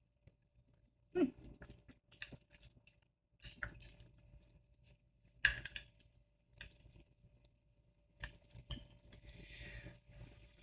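Eating sounds of spicy instant ramen: utensils clicking and clinking against a bowl, with chewing, in scattered short knocks, the sharpest about a second in and midway, and a brief hiss-like sound near the end.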